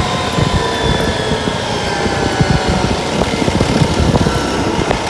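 Vehicle engine running, its pitch slowly falling, under heavy low rumble and buffeting.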